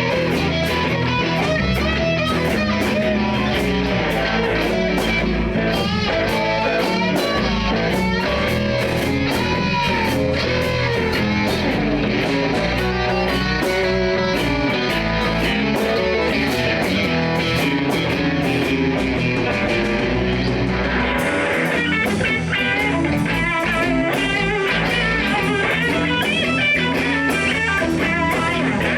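Live blues band playing an instrumental passage, with guitar to the fore over bass and drums. Bent notes glide up and down. The sound turns brighter about two-thirds of the way in.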